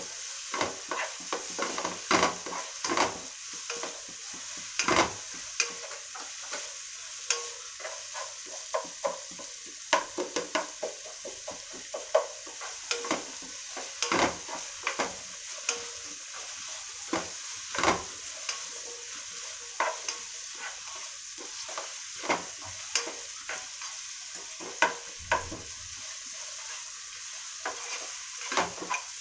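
Sliced onions, green chillies, cashews and peanuts sizzling in hot oil as they are sautéed with turmeric, a spatula scraping and knocking against the pan in frequent, irregular strokes over a steady hiss of frying.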